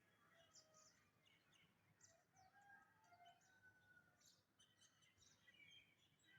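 Faint, overlapping chirps and short calls of birds, coming in quick scattered notes over a quiet background.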